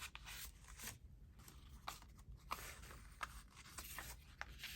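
Faint rustling and light taps of paper pieces being handled and sorted on a table, a few soft scattered clicks.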